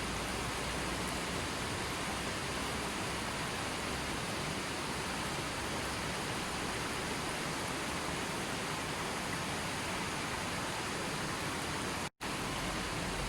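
Steady, even rushing noise of water, with no distinct events, cut by a momentary dropout to silence about twelve seconds in.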